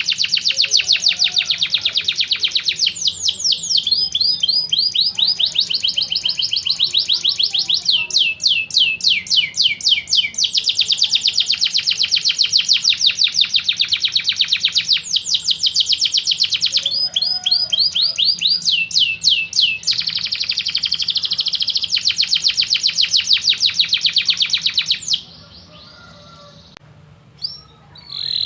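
Canary singing a long, continuous song of fast rolling trills and rapidly repeated sweeping notes. The song stops abruptly about 25 seconds in, and only a couple of short chirps follow.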